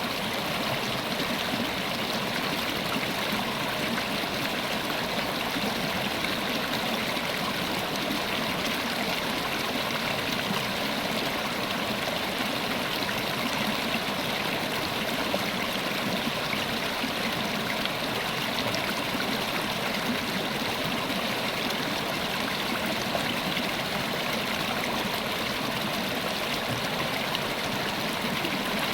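River water flowing steadily over rocks, an even rushing and burbling that does not change.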